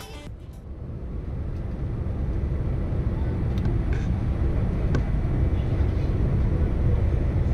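Steady low rumble of airliner cabin noise aboard a Boeing 787-9, fading in over the first two or three seconds, with a few faint clicks.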